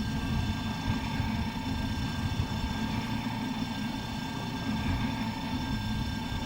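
Machinery running steadily: a low rumble with a few faint steady whining tones above it.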